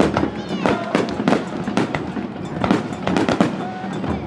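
Aerial fireworks bursting in quick succession, a dense run of bangs and crackles, with a few whistling glides about half a second in.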